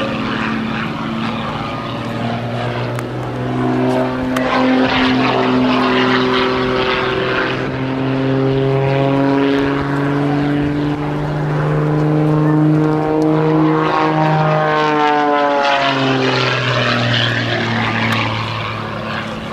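Propeller-driven airplane flying past, its engine and propeller tone slowly rising in pitch as it approaches, then dropping sharply about fifteen seconds in as it passes overhead.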